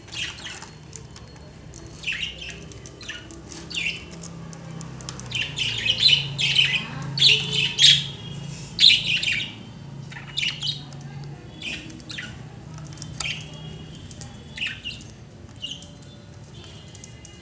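Pet budgerigars chirping and squawking in quick, short calls, busiest and loudest in the middle and thinning out toward the end.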